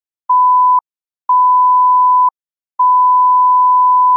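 Censor bleep: a steady 1 kHz beep tone sounds three times, short, then longer, then longest, with the audio cut to silence between the beeps, covering a string of swearing.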